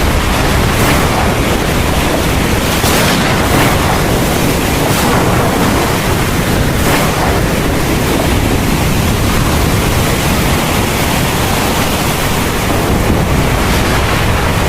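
Heavy rain falling in a steady downpour, a dense even hiss.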